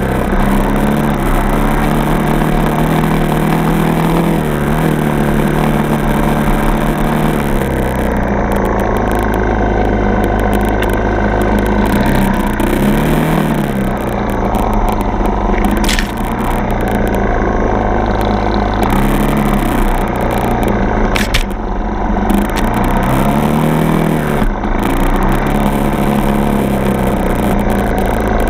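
Four-stroke dirt bike engine running under way, its revs rising and falling again and again with throttle and gear changes. Two short sharp clicks stand out, about halfway through and again a few seconds later.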